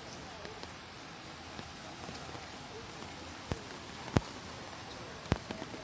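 Heavy rain falling steadily with an even hiss, broken by three sharp drip-like knocks in the second half, the loudest about four seconds in.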